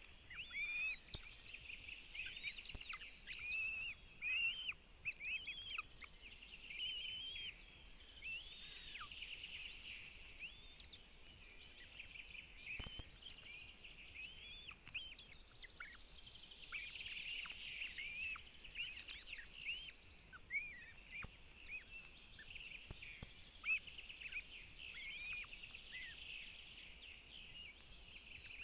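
Birds calling: many short, high chirps and whistles overlapping without a break, with a few louder calls standing out.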